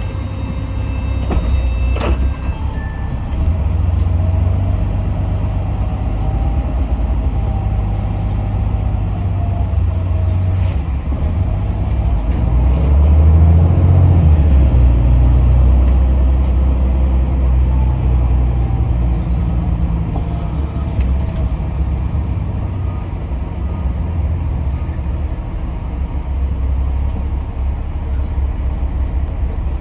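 Yutong ZK6128HG city bus's diesel engine running while the bus drives, heard from inside the cabin, loudest about halfway through, with a faint whine rising and falling. A sharp click about two seconds in.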